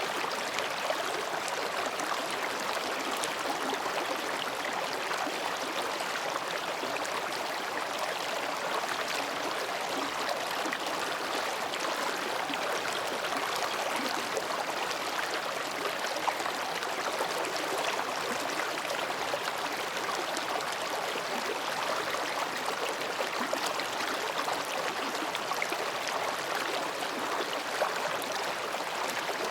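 Mountain stream babbling steadily over and between rocks, a continuous even rush of water.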